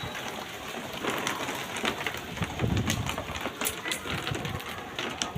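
Heavy rain pouring down, with steady hiss and many separate drops splattering on hard surfaces, and gusts of wind.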